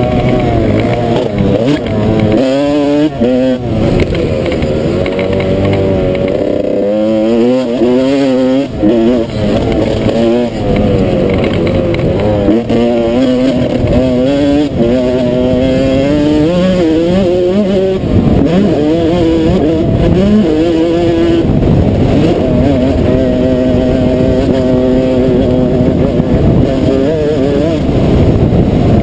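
Dirt bike engine being ridden hard: the revs climb and drop again and again with throttle and gear changes.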